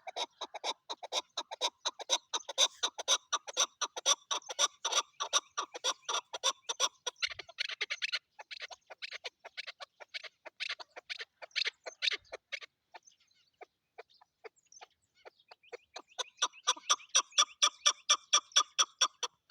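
Chukar partridge calling: a long, fast run of short clucking notes that thins out past the middle, then a second dense run of calls near the end.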